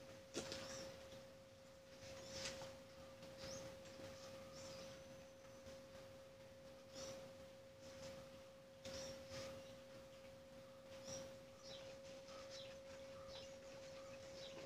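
Faint wet chewing and lip-smacking clicks of someone eating rice by hand, irregular and close to the microphone, over a steady high-pitched hum.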